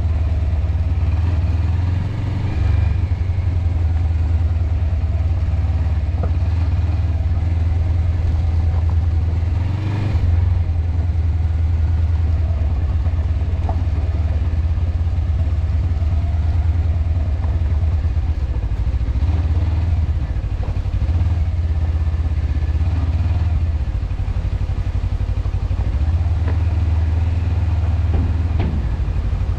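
Suzuki V-Strom motorcycle being ridden at a steady pace: a continuous low engine drone that varies a little in strength.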